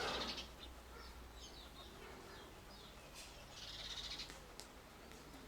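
Small birds chirping faintly: a few short high chirps about a second in and a brief burst of high chattering a little after the middle, with a single click near the end.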